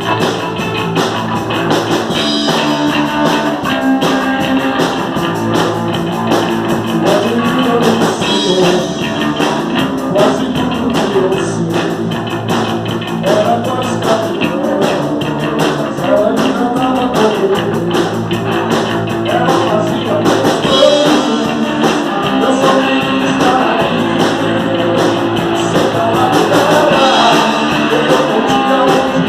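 Rock band playing live, guitars to the fore over a steady beat.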